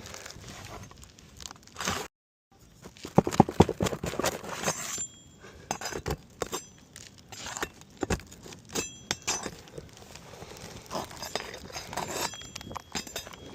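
Metal tool clinking and scraping against asphalt shingles as a shingle is pried up to free its nails, with irregular sharp knocks and a quick flurry of strikes a few seconds in. The shingle is hard to free because it was nailed twice.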